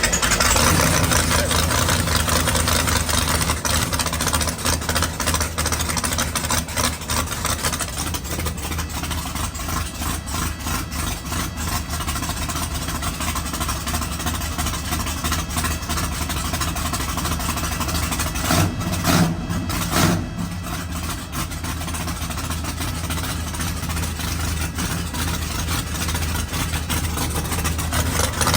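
Methanol-fuelled car engine on a cold start: it catches right at the start and runs steadily at idle, with a few short louder bursts about two-thirds of the way through.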